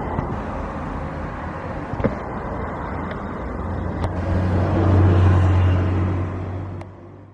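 Jet airliner engine noise: a broad roar with a deep rumble that swells to its loudest about five seconds in, then fades and cuts off abruptly near the end.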